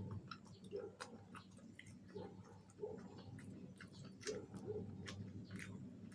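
Close-miked chewing of fried chicken wings: irregular wet mouth clicks and small crunches.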